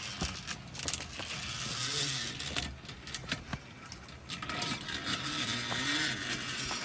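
Zip-line gear: scattered metal clinks and scrapes of harness hardware and trolley over a steady rushing noise.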